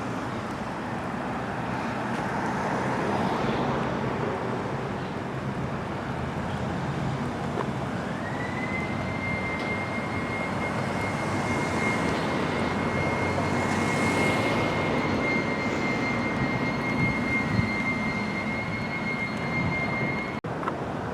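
Steady street traffic noise. About eight seconds in, a high steady whine slides up and holds, then cuts off suddenly near the end.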